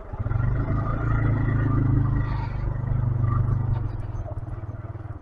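125cc motorcycle engine pulling steadily under load on a rough track, easing off about four seconds in.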